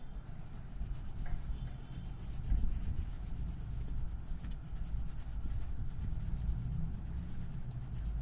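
Colouring strokes rubbed back and forth on paper: a continuous scratchy rubbing made of quick, closely repeated strokes.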